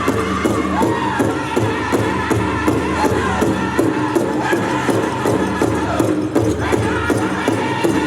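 Powwow drum group singing together over a steady unison beat on a big drum.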